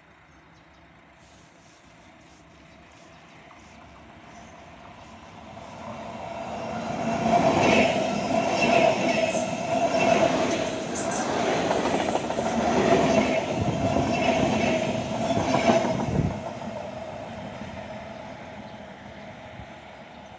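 ČD double-deck electric passenger train approaching and passing close by, its wheels clattering over the rails with a steady whine. After about ten seconds at its loudest the sound drops off suddenly as the last car goes by, then fades away.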